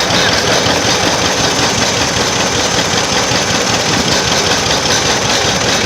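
Engine of a vintage machine running steadily while being driven, loud and close.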